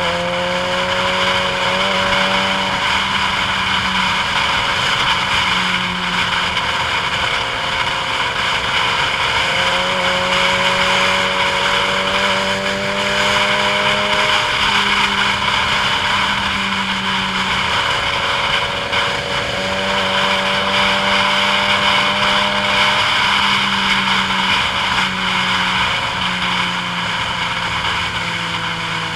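A motor vehicle on the move, heard on board: a steady engine hum whose pitch drifts slightly up and down, under a constant hiss of wind and road noise.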